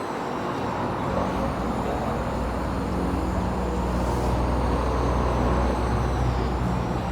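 Motor vehicle engine running steadily, a low even hum with road or exhaust rush over it.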